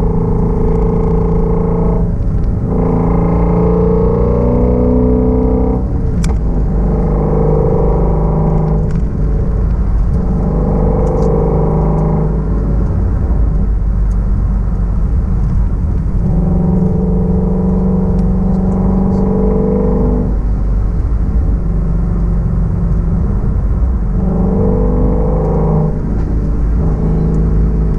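2016 Shelby GT350's 5.2-litre flat-plane-crank V8 and exhaust, driven at moderate throttle. The engine note climbs in pitch, drops back, and climbs again, with short breaks every few seconds, as at gear changes or lifts off the throttle.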